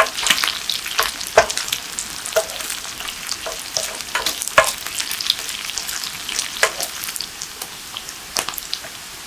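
Sliced potatoes, onion and bacon frying in olive oil in a pan, sizzling with small pops, while a wooden spatula scrapes and stirs them several times. The stirring stops near the end, leaving the steady sizzle.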